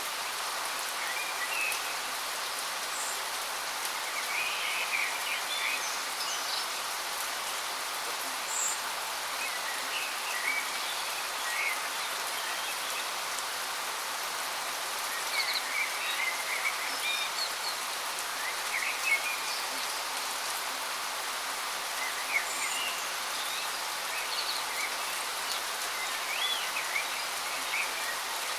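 Waterfall rushing steadily, with small birds chirping in short, scattered calls throughout.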